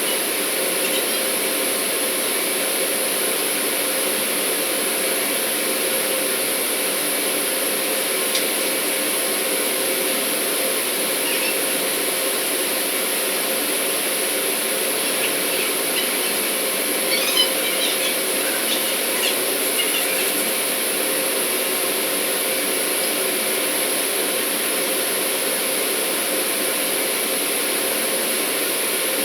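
Steady drone of running industrial plant machinery, a constant hum with a high hiss. A few light metallic clinks from tool work come through about halfway in.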